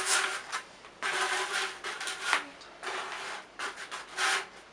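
A pen drawn along a ruler on a polystyrene foam block, in about five separate rubbing, slightly squeaky strokes, marking a cutting line.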